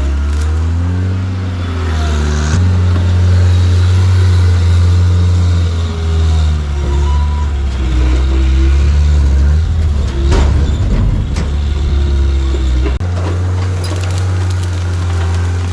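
John Deere 323D track skid steer's diesel engine running under load, its pitch and level stepping up about two and a half seconds in and dropping back near the end as the operator works the machine. A crunching, cracking burst comes about ten seconds in.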